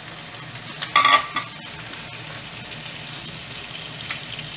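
Raw mutton mince sizzling as it fries in hot oil with onions in a kadai, stirred and spread with a wooden spatula. About a second in comes one brief ringing clink, the loudest sound.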